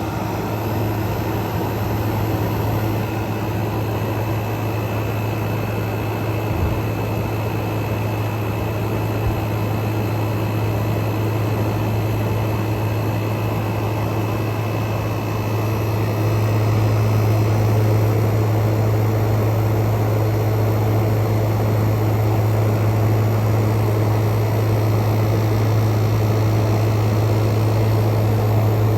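Frigidaire Gallery 10,000 BTU dual inverter window air conditioner running, its inverter compressor and fans at speed: a steady low hum over the rush of fan air. It gets somewhat louder a little over halfway through.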